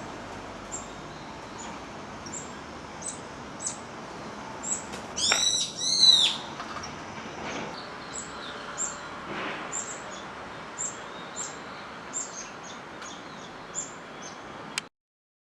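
Brown-eared bulbuls calling: two loud, shrill, arched notes about five seconds in, with short, thin, high call notes repeating throughout. The audio cuts off abruptly near the end.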